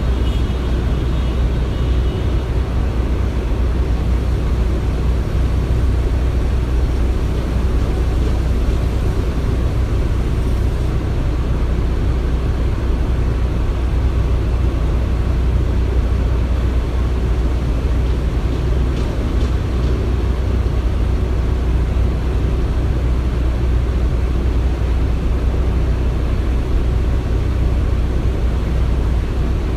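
Steady low rumble of construction-site machinery, even throughout with no distinct knocks or bangs.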